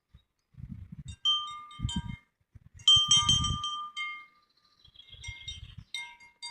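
Wind chimes ringing in irregular clusters of strikes, with low rumbles at the same moments.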